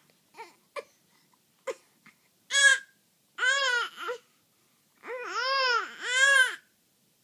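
A baby fussing and whining: a few short grunts, then a series of rising-and-falling cries, the longest pair near the end.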